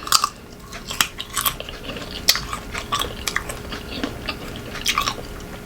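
Close-up crunching of unripe green mango being bitten and chewed, a string of irregular crisp crunches.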